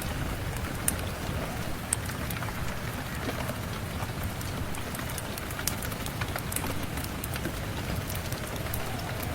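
Steady rain falling, a continuous rushing hiss with a deep rumble underneath, scattered with many sharp little ticks; a few louder ticks stand out about one, two and six seconds in.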